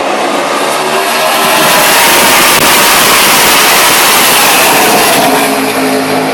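NASCAR stock cars' V8 engines running at full speed as they race past, swelling to a peak a couple of seconds in, then the pitch drops as they go by.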